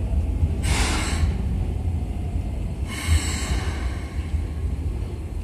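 Keikyu 1500-series electric train standing at the platform, letting out two short hisses of compressed air, about half a second in and about three seconds in, over a steady low rumble.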